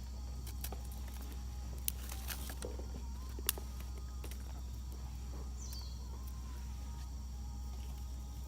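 Wood campfire crackling, with scattered sharp pops; the loudest snap comes about three and a half seconds in. A faint bird call sounds about six seconds in.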